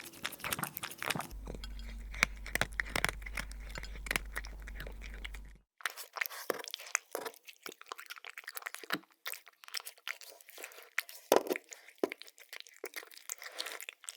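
A cat eating, crunching dry food in quick, irregular crunches and clicks, with a low hum under the first part. About five and a half seconds in, it cuts to another recording with sparser, sharper crunches.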